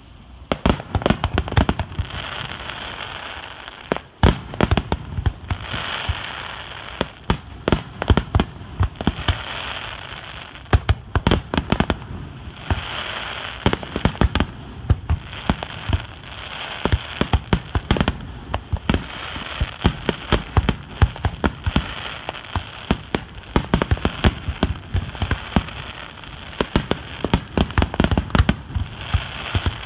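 Starmine fireworks barrage: aerial shells bursting in rapid succession, many booms and cracks a second, over a steady hiss that runs between the bursts.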